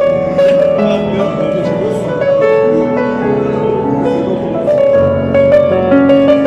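Piano playing a slow melody over held low chords.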